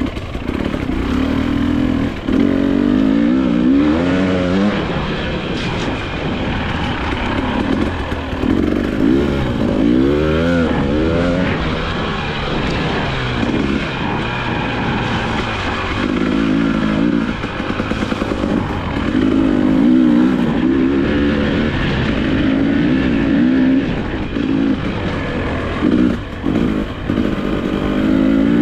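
2022 Husqvarna TE300i two-stroke dirt bike engine revving up and down over and over as it is ridden around a dirt track, its pitch rising and falling every second or two.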